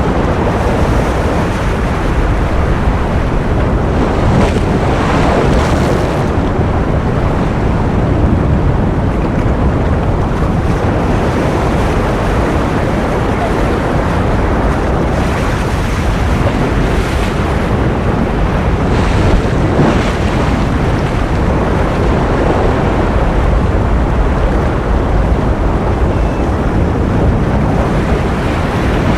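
Continuous ocean surf: a steady wash of waves with wind-like noise, swelling briefly a few times.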